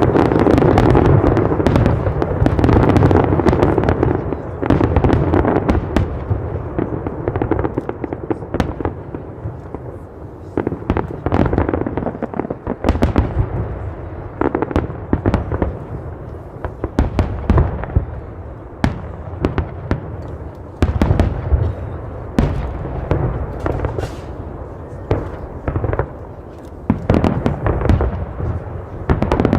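Fireworks display: a dense barrage of overlapping bangs for the first few seconds, then many separate sharp bangs and crackles, thickening again near the end.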